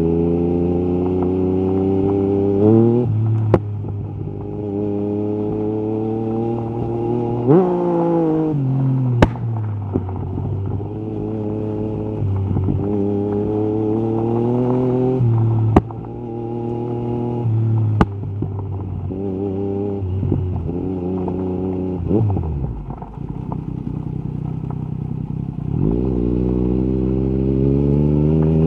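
Yamaha MT-09 SP's three-cylinder engine through an Akrapovic carbon exhaust, accelerating up through the gears: the pitch climbs in each gear and falls back at each shift, with a few sharp cracks from the exhaust. Around two-thirds in the engine eases off, then pulls hard again near the end.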